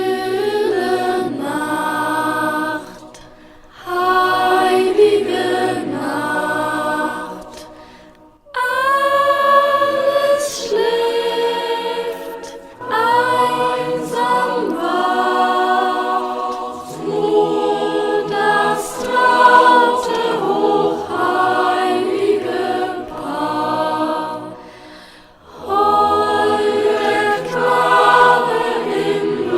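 Voices singing a German Christmas carol in phrases separated by short pauses, with a choral sound.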